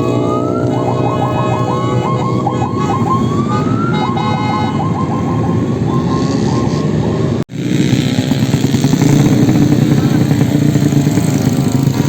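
Modified Yamaha Jupiter motorcycle engines revving hard, with rapid throttle blips and rising sweeps in pitch. After an abrupt cut about seven and a half seconds in, a lower, steadier motorcycle engine drone.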